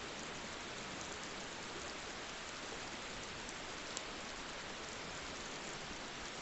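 Steady rain falling, an even hiss with a few individual drops ticking, one a little louder about four seconds in.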